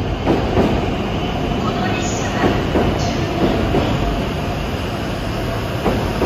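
JR West W7 series Shinkansen train running slowly into the platform to stop, a steady rumble of its cars passing with occasional knocks from the wheels on the track.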